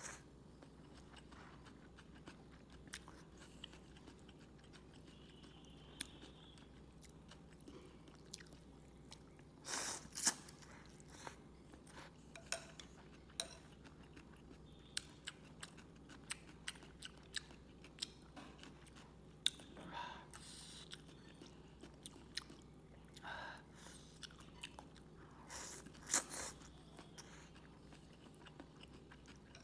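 A person chewing and biting mouthfuls of Vietnamese rice noodles, close to the microphone: scattered short clicks and smacks, with a few louder mouth sounds spaced several seconds apart.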